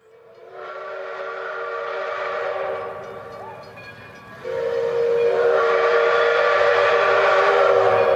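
Two long whistle blasts with a hiss behind them. The first fades in and tails off. The second starts about halfway through, louder and held steady.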